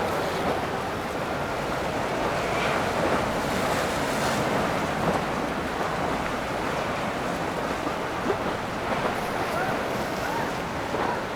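Wind rushing over the microphone with water washing and the low, steady rumble of a boat engine underneath.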